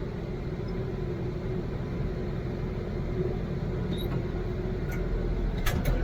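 Diesel engine of a piece of heavy equipment running steadily, with a couple of sharp metallic clicks near the end.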